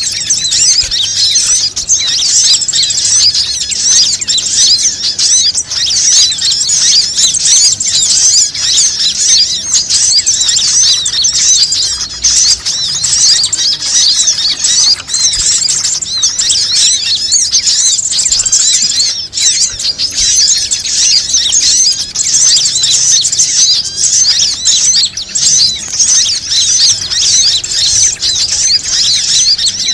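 Bird-lure recording of many small birds chirping and twittering at once, a dense, continuous high-pitched chatter meant to draw other birds in.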